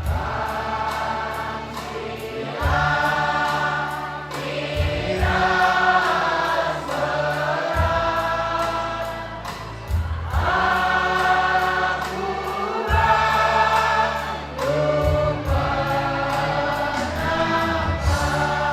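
A group of voices singing a slow song over sustained bass notes and a light, regular ticking beat. The music stops right at the end.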